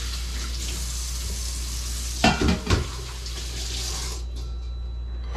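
Oil sizzling steadily in a hot frying pan, with a few metal clanks of pots and utensils about halfway through. The sizzle stops short near the end.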